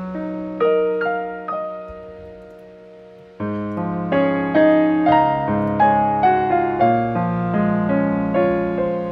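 Background piano music, slow single notes that swell into fuller chords about three seconds in.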